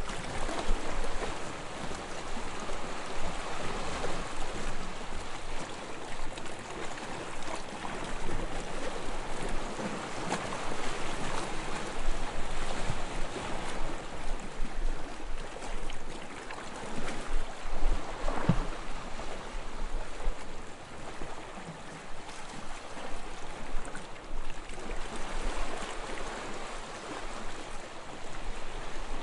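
Small waves lapping on a sandy shore, a steady wash of water that swells and ebbs, with one sharper splash about two-thirds of the way through.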